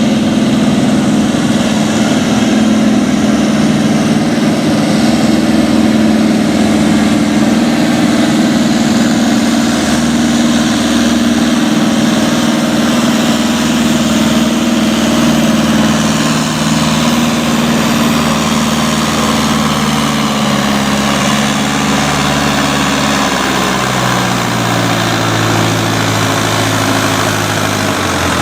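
Farm tractor engine running hard under load during a sled pull, its pitch sinking slowly and then dropping lower in steps in the last few seconds.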